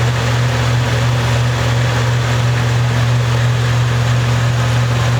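Steady low hum with a constant hiss underneath, unchanging throughout.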